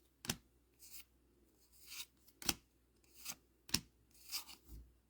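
Score Dragon Ball Z trading-card booster pack being opened and its cards handled: a string of short, soft rustles and flicks about half a second to a second apart.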